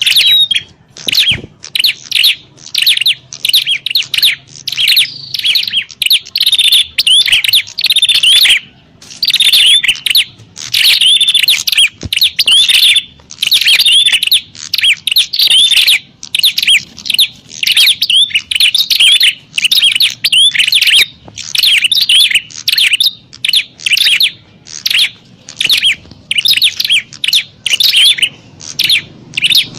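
Prenjak (prinia) birds calling in a rapid, agitated stream of sharp chirps with short pauses, the noisy calling of prinias squabbling, as used to lure wild prinias.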